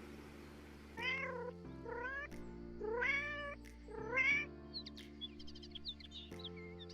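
A cat meowing four times, about a second apart, each call rising then falling, over steady background music. A cluster of short, high chirps follows after the meows.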